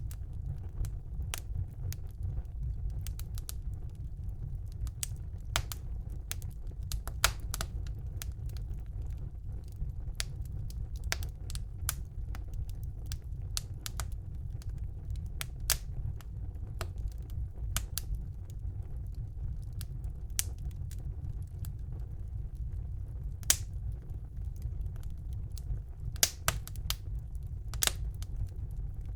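Wood fire burning in a fireplace: irregular crackles and sharp pops over a steady low rumble of the flames, with a few louder pops standing out.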